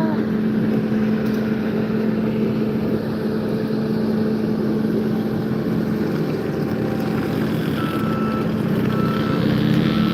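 An engine running steadily with an even drone. In the last couple of seconds, short high beeps repeat about once a second.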